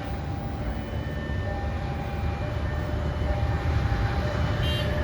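Indonesian passenger train running past a level crossing at speed: a steady low rumble, with a short click near the end.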